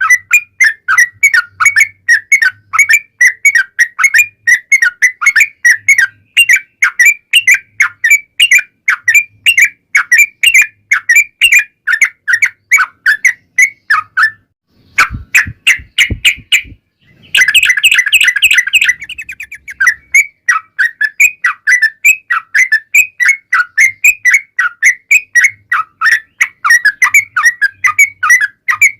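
Yellow-vented bulbul singing a long, rapid run of short chirping notes, about four or five a second. About halfway the song breaks off for a couple of seconds with a few low thumps, then resumes with a dense, busier burst before settling back into the steady run.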